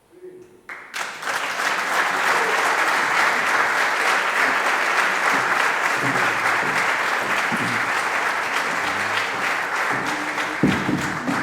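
Audience applause breaking out suddenly about a second in, then continuing as steady, dense clapping.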